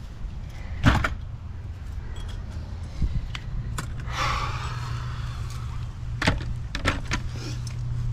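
Several sharp knocks and clatters of tools and parts being handled and put away, with a brief hiss about four seconds in, over a steady low hum.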